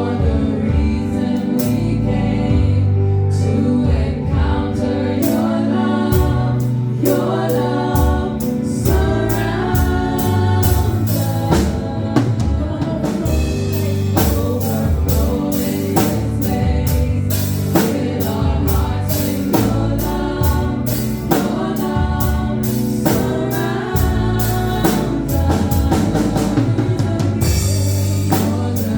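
Live gospel praise music: voices singing together over a band, with a drum kit keeping a steady beat and bass notes underneath.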